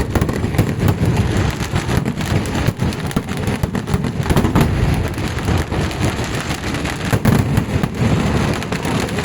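Festival fireworks going off in a dense, continuous barrage: rapid bangs and crackling over a deep rumble, with no break.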